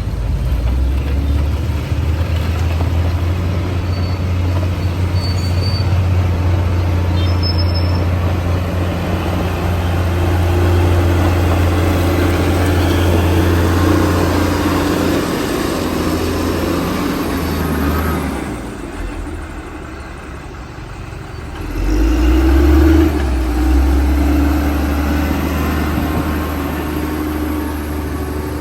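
Heavy diesel engine of a large bulldozer running hard and steady. It eases off for a few seconds past the middle, then picks up again.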